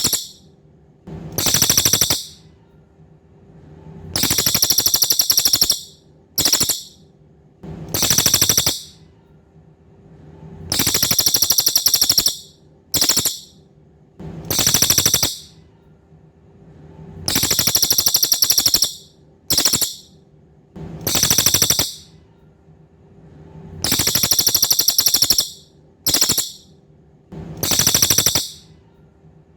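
Cililin bird singing: loud, high-pitched, rapid trill phrases of one to two seconds, each often followed by a short clipped trill, repeating every couple of seconds with quiet gaps between.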